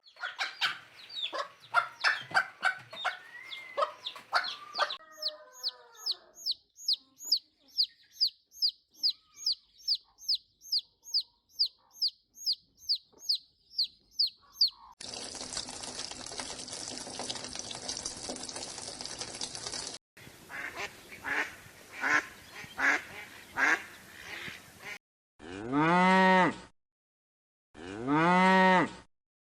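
A run of short animal-sound clips, one after another: quick calls, then a long series of evenly repeated high chirps, then noisier pulsed calls, ending with two long cow moos that rise and fall in pitch.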